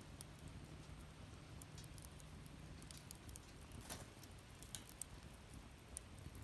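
Wood fire crackling faintly: scattered small pops and snaps over a low rumble, with a few louder pops from about four seconds in.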